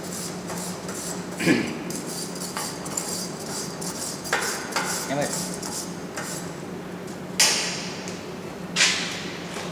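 Metal pieces clanking and knocking: four sharp metallic impacts with a brief ring, the loudest about seven and a half seconds in, plus lighter clicks, over a steady low hum.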